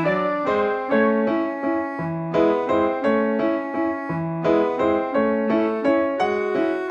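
Piano music playing a melody of short notes, several notes a second.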